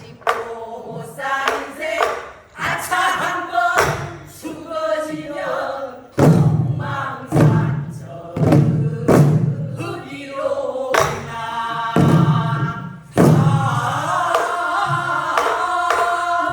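A group of singers singing a Korean folk song in unison while beating buk barrel drums. Sharp drum strokes land between and under the sung phrases every one to two seconds.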